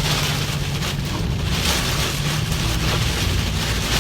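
Heavy rain hitting a moving car, heard from inside the cabin as a steady wash of noise over the low hum of the engine and tyres.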